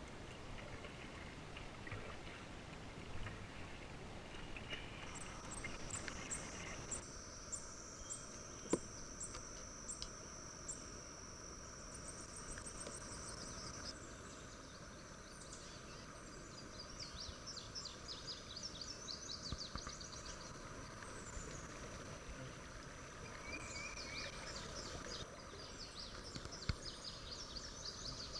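Summer insects droning in a steady high pitch, with repeated high chirps and trills over the drone, and a few light knocks.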